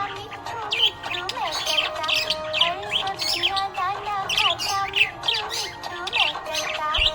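Budgerigars chirping and warbling continuously: a dense run of quick, high chirps over lower wavering notes.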